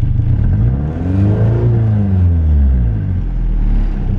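Nissan 240SX S13's four-cylinder engine blipped once from idle, warm: the revs climb about half a second in, peak near the middle and drop back to idle about three seconds in. It revs cleanly on fresh spark plugs, with no misfire, and sounds good.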